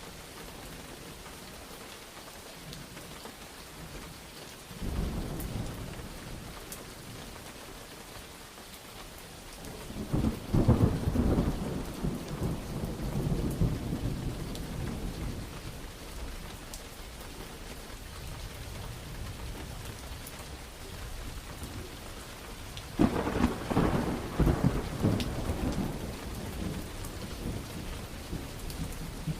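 Steady rain falling during a thunderstorm, with three rolls of thunder: a short low rumble about five seconds in, a loud crack around ten seconds in that rumbles on for several seconds, and another sharp clap with rumbling about two-thirds of the way through.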